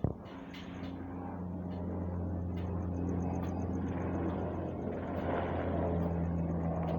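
A short click right at the start, then a UH-60M Black Hawk helicopter's twin-turbine engine and rotor noise as it approaches: a steady low drone that grows louder over the first three seconds and then holds.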